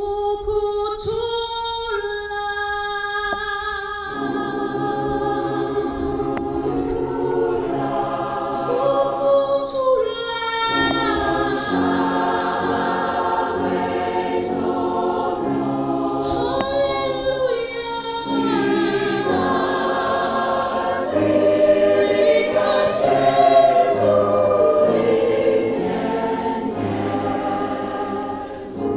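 Mixed community choir singing. The first few seconds are a single held note, then the full choir sings in harmony from about four seconds in.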